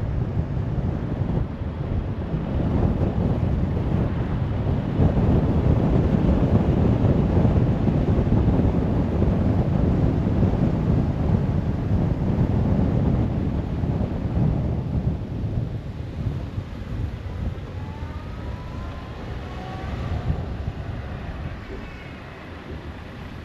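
A car driving on a road: a steady rumble of tyre and wind noise that swells, then grows quieter in the second half, with faint engine tones rising in pitch near the end.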